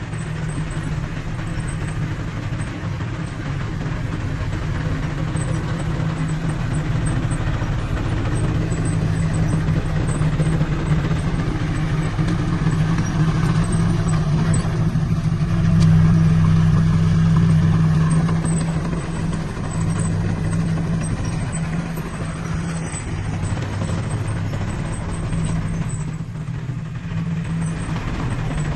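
Heavy earthmoving machine's diesel engine running steadily at work, swelling a little past the middle and then easing back.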